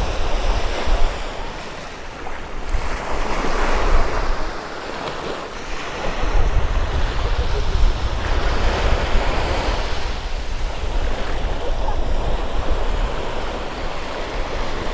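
Sea waves washing and wind gusting, with wind buffeting the microphone in a low rumble; the wash swells and ebbs every few seconds.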